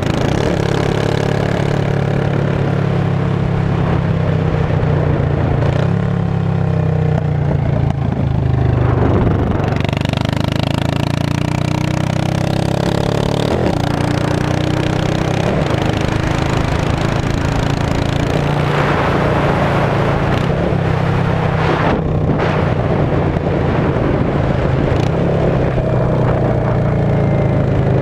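A 2002 Yamaha V-Star 650's air-cooled V-twin running through straight pipes, its revs rising and falling a few times. A few sharp pops come in the second half.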